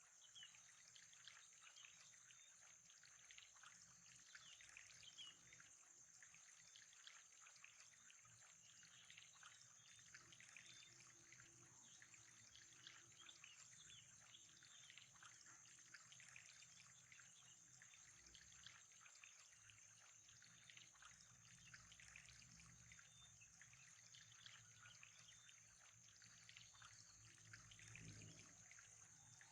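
Faint, steady trickling of water with many small drips and splashes and a constant high hiss above it.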